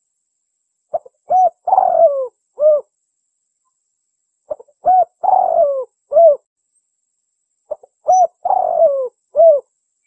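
Spotted dove (tekukur) cooing its song in three repeated phrases about three and a half seconds apart, each a short note or two, a long falling coo and a closing coo. It is the two-'kuk' call of a contest bird, played as a lure to draw wild doves.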